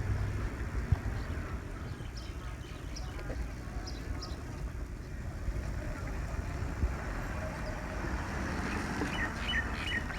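A small bird chirping: a few faint high chirps early, then a quick run of short falling chirps near the end, over a steady low rumble.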